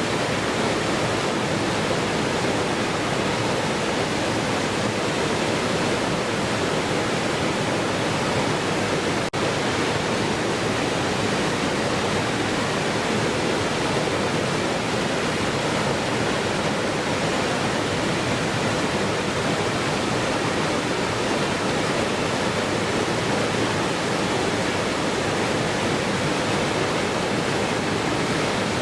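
Waterfall rushing in a steady, unbroken roar of falling water, with a momentary dip in level about nine seconds in.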